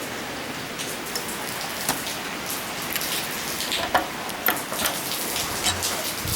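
Steady hiss with many scattered, irregular sharp ticks, the sound of rain falling on a surface.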